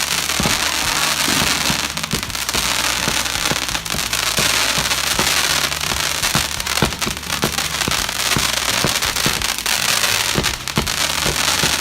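Fireworks display going off: a dense, continuous crackle of many small bursts with sharper bangs scattered throughout.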